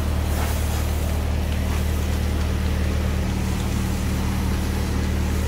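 Fire engine's engine running steadily: a constant low hum.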